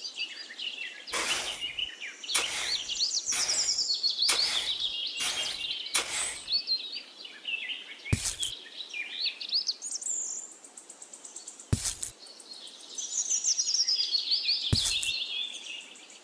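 Small birds chirping and twittering, a busy run of high chirps that thins out briefly after the middle. Short scuffing noises come about once a second over the first six seconds, then three more, further apart.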